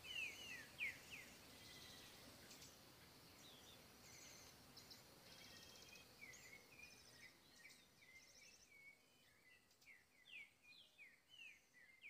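Faint birdsong: many short slurred chirps repeating throughout, with some buzzy notes higher up in the middle.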